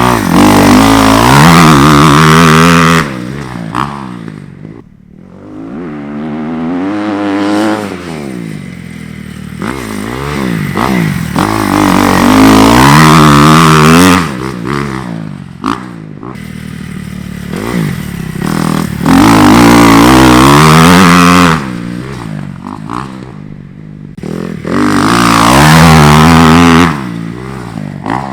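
Dirt bike engine being ridden hard, its pitch climbing and falling over and over as the throttle opens and closes, with four long loud full-throttle pulls between quieter backed-off stretches.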